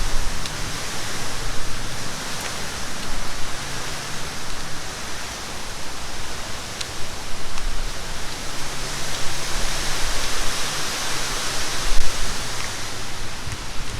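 Steady rushing outdoor noise with uneven low rumbles.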